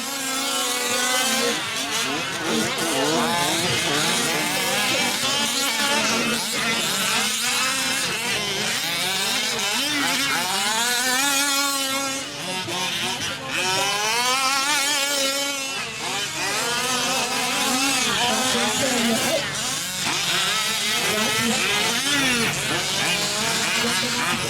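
Several 1/5-scale RC off-road trucks' small two-stroke gasoline engines buzzing, their pitch rising and falling again and again as they throttle up and back off around the track.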